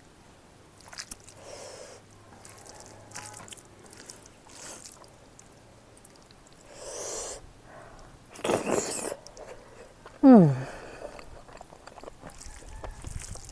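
Close-up mouth sounds of a person eating smoked pork fat with her hands: soft, wet chewing and breaths between bites. About ten seconds in comes a short, loud cry that slides sharply down in pitch.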